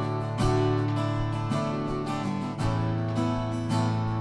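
Instrumental break of a country song: strummed acoustic guitar with steady chords, no singing.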